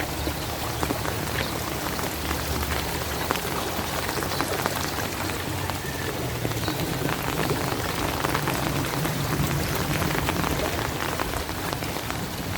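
Steady rain falling, a dense hiss with many small drops pattering in quick succession.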